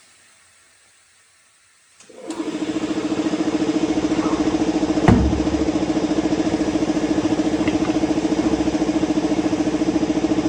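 A car engine starts about two seconds in and settles into a steady idle with an even pulsing beat. There is a single sharp knock about five seconds in.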